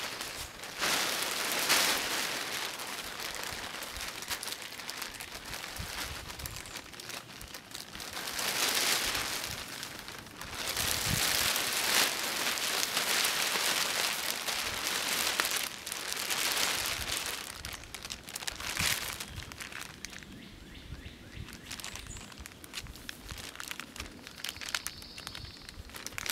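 Lightweight homemade tarp crinkling and rustling in irregular bursts as it is handled and the paracord ridgeline is run through its loops.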